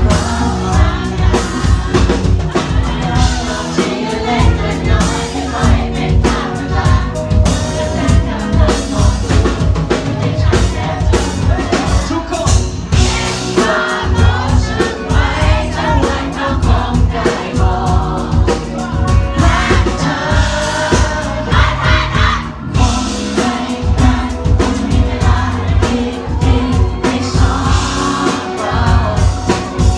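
Live band playing a pop song with a male lead singer over a steady drum beat, and the crowd singing along.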